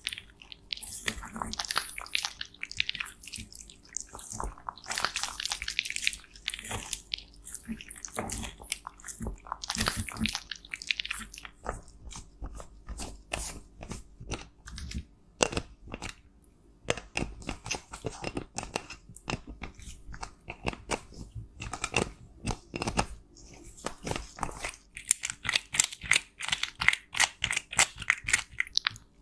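Pressed makeup powder being crushed and scraped up close: dense, irregular crunching and crackling with brisk scratchy strokes, busiest at the start and again near the end.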